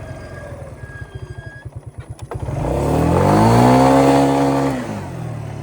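Yamaha Grizzly 125 ATV's single-cylinder four-stroke engine idling, then, after a sharp click, revving up hard, holding high for about two seconds and dropping back to idle: a burnout attempt.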